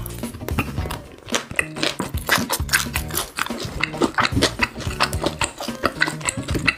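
A person chewing food close to the microphone, with many wet smacks and clicks of the lips and mouth, over background music.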